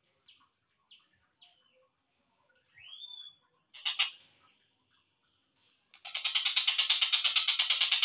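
Slowed-down recording of a tengkek buto kingfisher calling. In the first half come a few faint short chirps and one upward-sweeping note, with a sharp call about four seconds in. From about six seconds a loud, fast run of repeated harsh notes starts, about eight a second.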